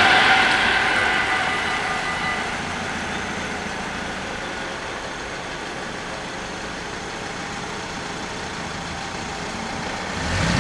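A Mat '64 electric train pulling away from the level crossing, its sound fading over the first few seconds to a steady low hum. Near the end a waiting Volvo hatchback's engine picks up as the car moves off.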